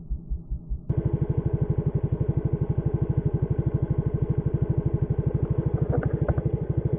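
A small engine running with an even beat. About a second in it jumps to a faster, louder beat and keeps that pace.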